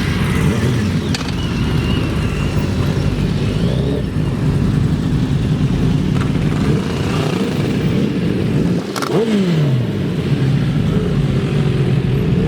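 Motorcycle engines running on the road, with a fall in pitch about nine seconds in as an engine revs down or passes by.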